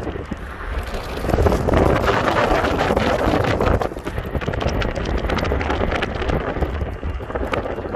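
A freight train passing with a low rumble and a rapid, irregular run of clicks, louder from about a second in. Heavy wind buffets the microphone over it.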